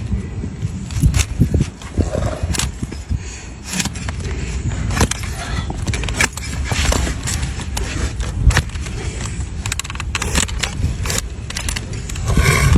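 Hoof trimming on a donkey: irregular sharp clicks, knocks and scraping of trimming tools against the hoof horn.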